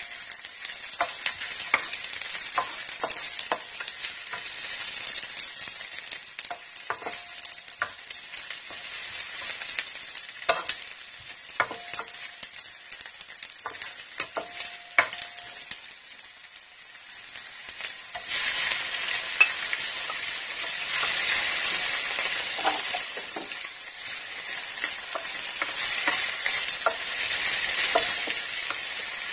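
Chopped garlic and onion sizzling in hot oil in an electric skillet, stirred with a wooden spatula that taps and scrapes against the pan. About two-thirds of the way in the sizzle grows louder as raw chicken slices go into the oil.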